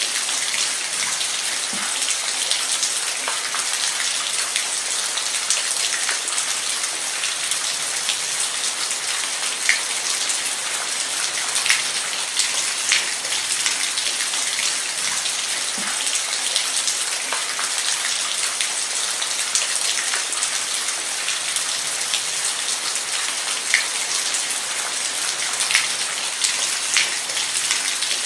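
Steady rainfall, a continuous hiss with individual drops landing close by as frequent sharp ticks.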